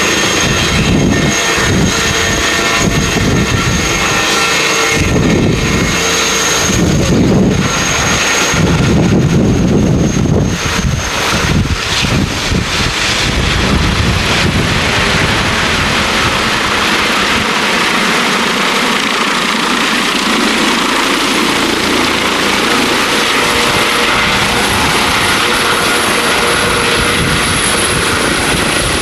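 Twin-engine turbine helicopter running close by: uneven low rumble from the rotors at first, settling about halfway into a steady rush of turbine noise with a faint high whine.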